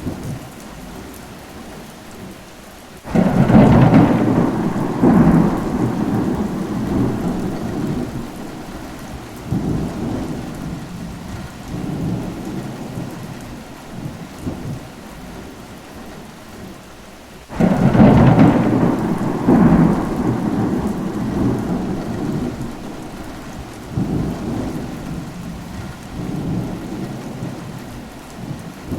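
Steady rain falling with two thunderclaps, one about three seconds in and another near the middle, each breaking suddenly and then rolling and rumbling for several seconds as it fades.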